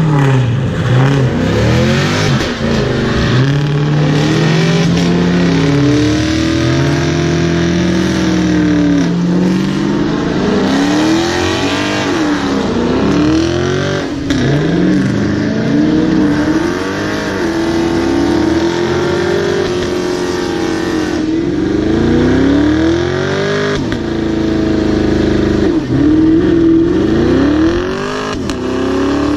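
Car engines revving hard again and again, their pitch climbing and dropping every couple of seconds, with more than one engine sounding at once.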